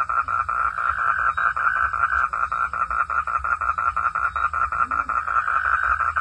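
A frog calling in a steady run of rapid, evenly repeated pulses, about six a second, over a low rumble.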